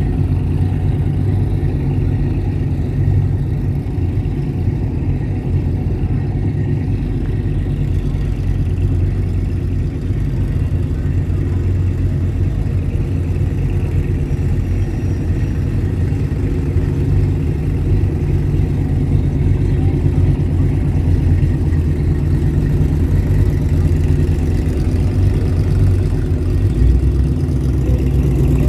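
Car engine idling steadily, with an even low-pitched running note that holds without revving.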